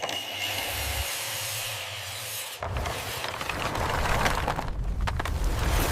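Power tools working wood: a steady hiss with a faint high whine, then an abrupt change about two and a half seconds in to a louder, rougher cutting sound with a low rumble and scattered clicks.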